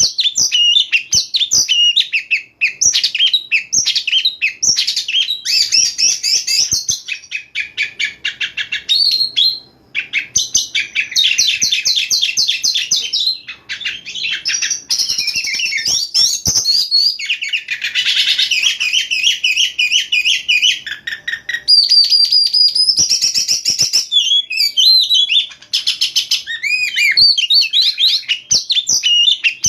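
Oriental magpie-robin (kacer) singing a long, varied song of rich whistles, fast trills and rattling notes.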